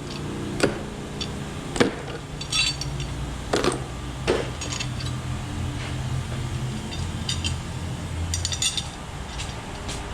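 Small steel engine parts and hand tools clinking and knocking against each other and the engine during teardown of an LS1 V8's valvetrain: a few sharp knocks and several short bright metallic jingles.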